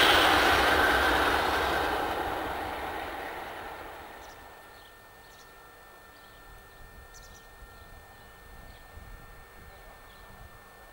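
A train moving away along the line, its running noise dying away over the first four seconds or so. After that there is only faint background with a few short, high chirps.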